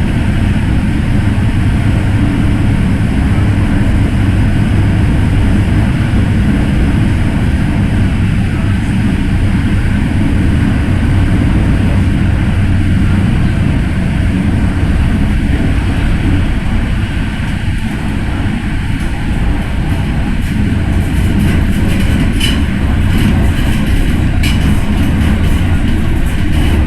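MTR M-Train electric multiple unit heard on board, running at speed with a loud, steady rumble from wheels and rails. Short, sharp clicks and rattles come in during the later part.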